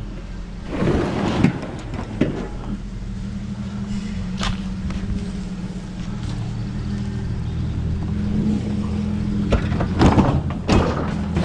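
An engine idling steadily, with scrap metal clanking and thudding as it is thrown off, in a few knocks early on and a burst of clanks near the end.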